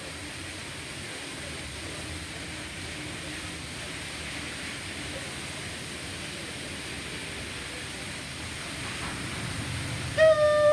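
Automatic car wash equipment running with a steady hiss of spray or air. Near the end, a loud electronic beep sounds once and lasts under a second.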